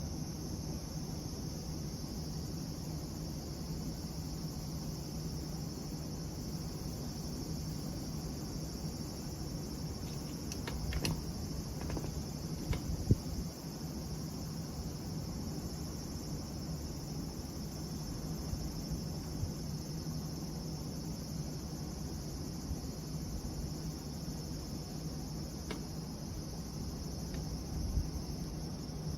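Crickets chirping in a steady high trill, with a few sharp pops from a burning Swedish torch log, a cluster about halfway through and one or two more near the end.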